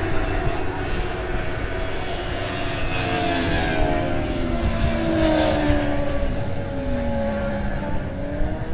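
Superbike racing motorcycles running hard, several engine notes overlapping, their pitches gliding up and down as they rev and shift.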